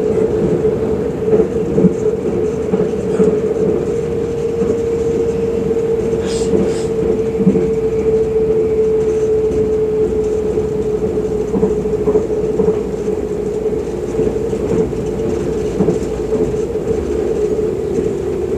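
Electric passenger train running at speed, heard from inside the carriage: a steady hum over the rumble of the wheels on the track, with occasional light knocks.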